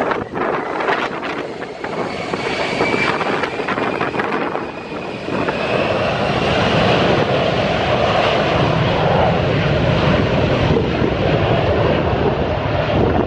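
Airliner passing close by: engine whine with faint gliding high tones early on, swelling into a loud, steady rush of engine noise from about six seconds in.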